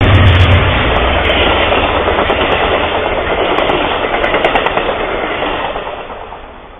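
A train passing close by, heard through a trail camera's microphone: wheels clattering on the rails with a low rumble at the start, the noise fading away near the end.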